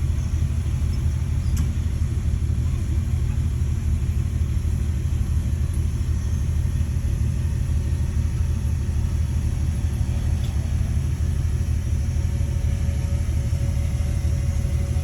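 Bulldozer's diesel engine running with a steady low rumble.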